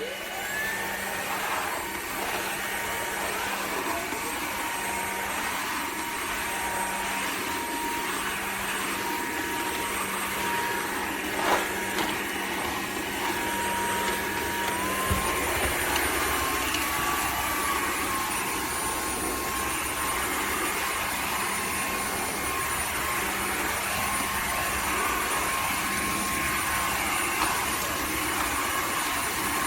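Cordless wet-dry vacuum mop running over a muddy hard floor: a steady motor whine with a sharp click about twelve seconds in, and the whine stepping up in pitch about halfway through.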